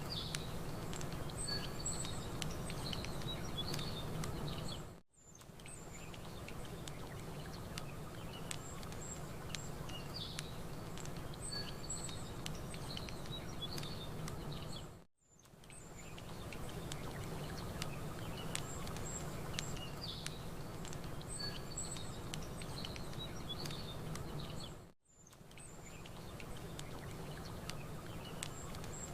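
Campfire crackling over a steady wash of lapping water, with small birds chirping. It is a looped ambience track: the sound dips out briefly three times, about every ten seconds, and the same bird calls come round again after each dip.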